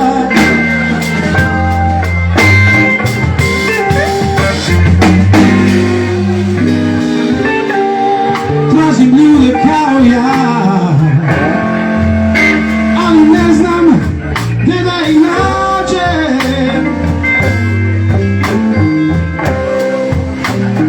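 Live blues band playing an instrumental passage. An electric guitar plays a lead with bent notes over bass guitar and drum kit.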